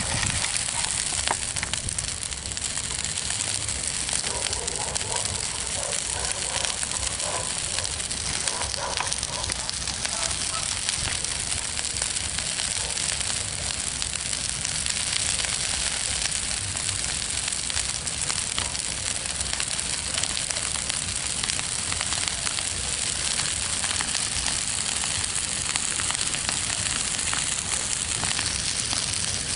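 Backyard bonfire of brush and grass burning, a steady crackle and hiss with many small pops.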